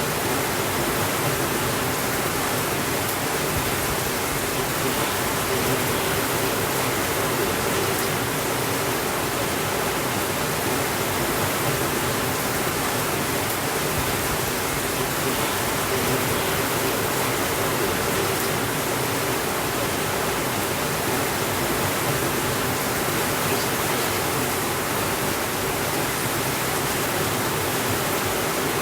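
Steady heavy rain, an even hiss that runs on without breaks or changes in level.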